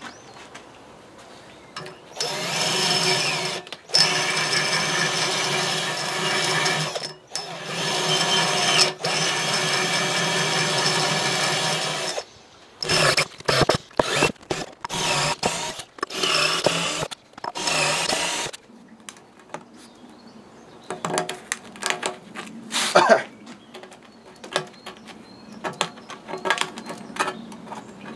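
A handheld electric power tool running in several runs of a few seconds each, then in short on-off pulses, followed by quieter scattered clicks and knocks; it is at work cleaning out the threaded holes in a cast iron workbench column.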